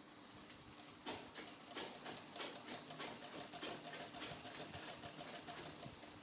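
Sewing machine stitching a seam at an even pace, a fast run of needle strokes that starts about a second in and stops near the end.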